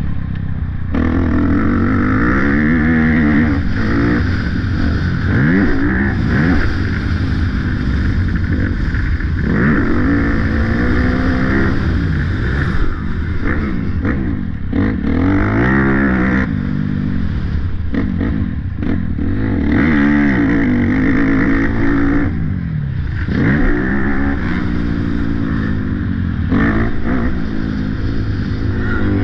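Motocross bike engine being ridden, revving up and falling back again and again with the throttle and gear changes.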